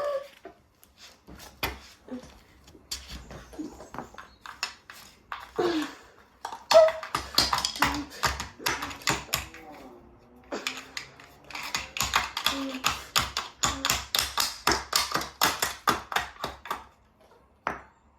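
Small portable washing machine running with bricks in its tub: rapid hard knocking and clattering, sparse at first, then in two long dense runs of several knocks a second.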